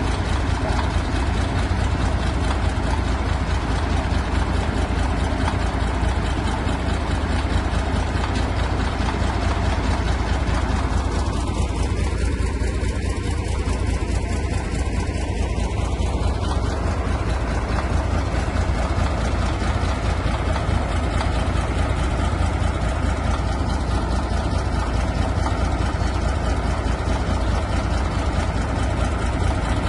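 Diesel engine of a Caterpillar D4 crawler tractor running steadily, heavy in the low end.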